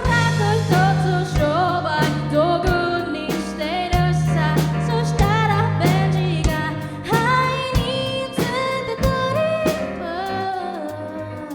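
A live band playing a song with a lead singer: sung vocals over drums, bass and keyboard, growing a little quieter near the end.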